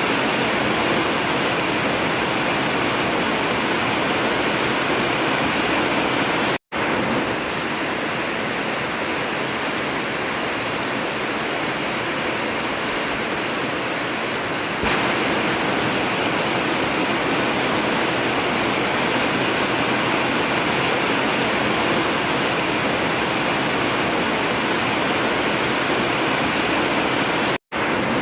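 Heavy rain drumming steadily on a metal roof, a dense even hiss with no thunder. It cuts out for an instant twice, about a third of the way in and near the end.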